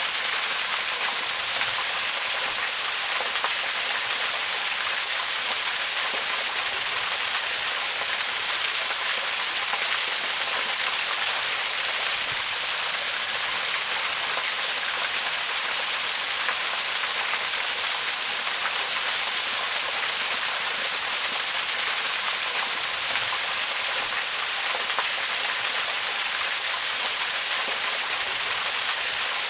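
Waterfall: a steady rush of falling water, mostly a bright hiss with little low rumble.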